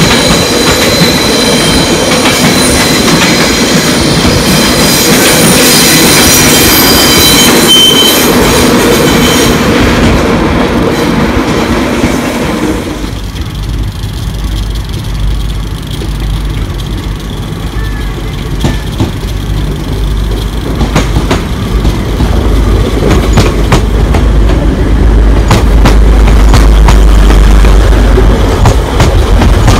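Passing passenger trains. First an LNER train moves along the far platform with a steady high-pitched whine and squeal over its rumble. From about 13 seconds in, a TransPennine Express unit rolls close by with a deep rumble that grows louder toward the end.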